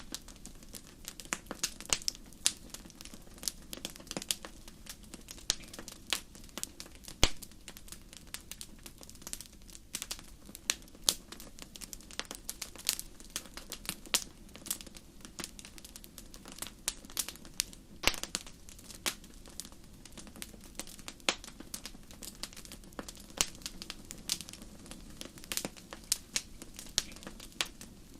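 Wood fire crackling in a fireplace: a steady stream of irregular sharp pops and snaps over a low hiss of burning, with a few louder pops now and then, as at about 7 and 18 seconds in.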